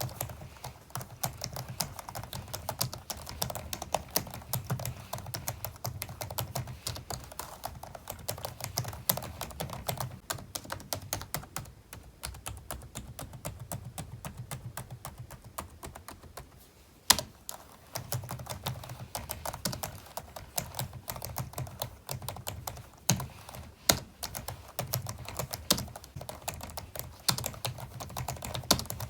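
Steady fast typing on a computer keyboard, a quick run of keystroke clicks. About two-thirds of the way through the typing stops for a moment, broken by a single louder key strike, then carries on.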